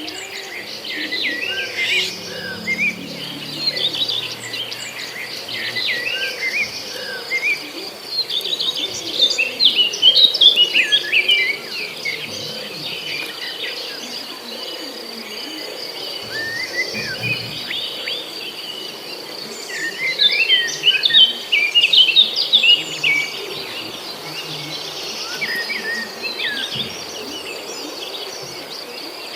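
Birds chirping in quick, busy bursts of short calls, loudest about a third and again two-thirds of the way through, over a steady high insect trill.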